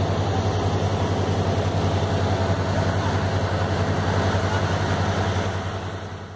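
Engine running steadily with an even, fast pulsing beat, fading out near the end.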